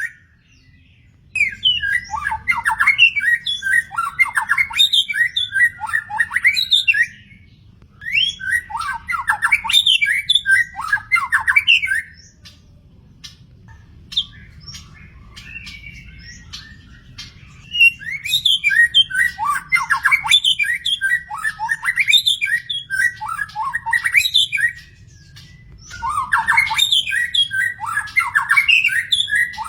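A murai songbird singing a loud, varied song of whistles and chattering notes. It sings in bouts of four to six seconds with short pauses between them and a longer quieter stretch in the middle.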